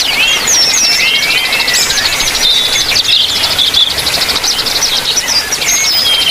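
Several aviary birds, trucukan (yellow-vented bulbuls) among small birds, calling and singing at once: a fast, even high trill runs under many short slurred whistles and chirps that overlap throughout.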